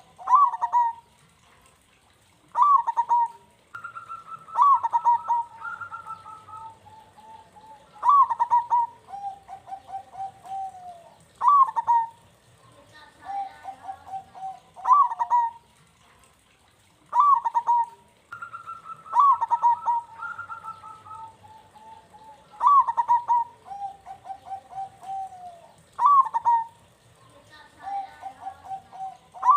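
Zebra dove (perkutut) song: a cooing phrase repeated about every three to four seconds, each a strong opening note followed by a quick run of softer notes. Twice a second, higher voice overlaps with a held coo.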